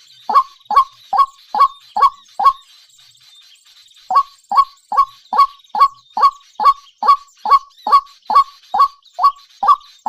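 A bird calling in a fast, even series of short calls, each dropping in pitch, about two and a half a second. Six calls come first, then a pause of about a second and a half, then a steady unbroken run.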